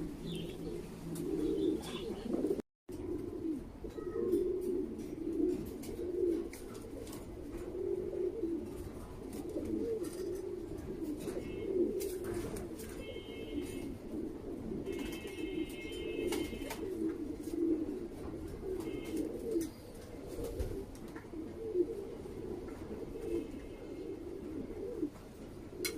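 Lahore pigeons cooing continuously, several low coos overlapping in a steady pulsing chorus.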